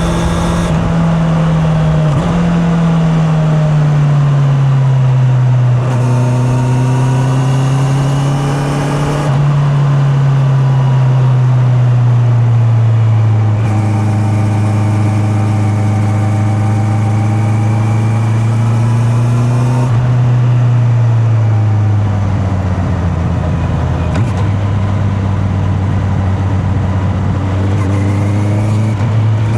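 Honda CB650R inline-four engine under way on the road, its pitch sinking slowly and jumping up again several times as the revs change with the gears. The sound is picked up from the rider's back pocket.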